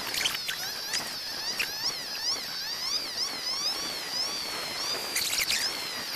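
Small birds singing continuous high, warbling trills over a steady background hiss, with a brief rustle right at the start and another about five seconds in.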